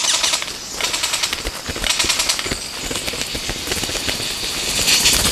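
Male Vogelkop bowerbird's courtship display song: a fast, dense rattle of clicks and harsh churring notes that barely lets up, louder near the end.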